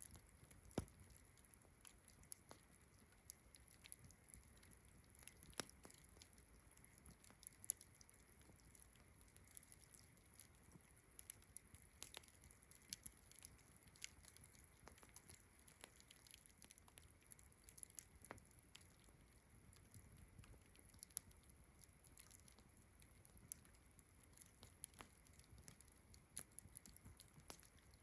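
Campfire crackling with irregular sharp pops, several a second at times, over a faint steady high chorus of distant crickets and frogs.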